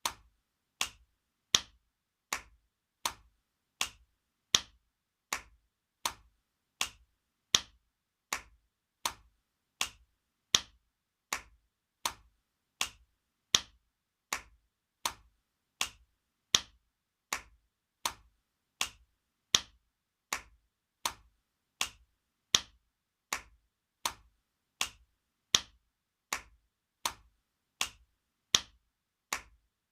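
Spanking sound effect: sharp slaps repeating evenly about every three quarters of a second, some louder than others, each dying away quickly.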